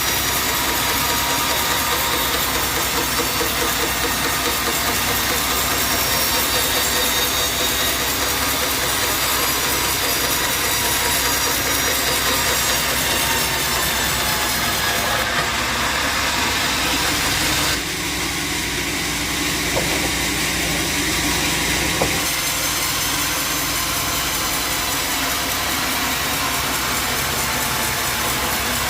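Bandsaw sawmill running steadily as it saws a jackfruit log, a constant mechanical whir with high steady tones. About eighteen seconds in, the sound dips slightly and changes character.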